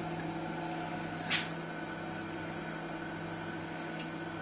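Steady electrical hum of a salami-curing fridge's humidity fogger running after cutting back in, with one sharp click about a second and a half in.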